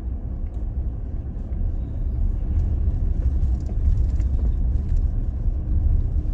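Toyota Tacoma truck running slowly along a dirt track: a steady low rumble from engine and tyres, with a few faint light knocks over it.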